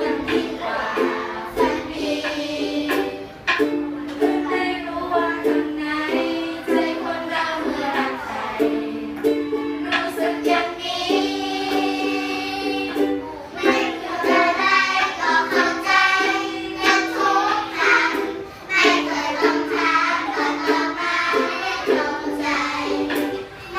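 Singing, likely a group of young voices, over strummed ukulele chords in a steady rhythm.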